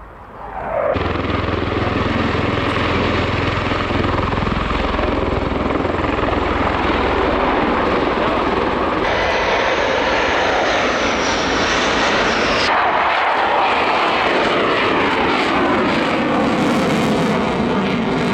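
Display aircraft flying past overhead, their engines loud and steady. The sound changes abruptly a few times, and in the second half it sweeps in pitch as an aircraft passes.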